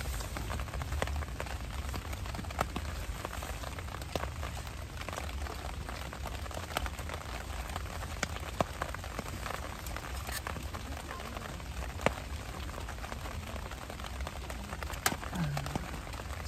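Rain falling steadily on a tent, heard from inside, with a low rumble and many separate drops ticking sharply on the fabric.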